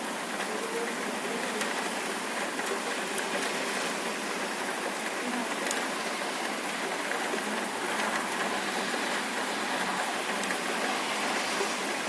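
Summer rain falling steadily: a dense, even hiss with scattered sharper ticks of individual drops.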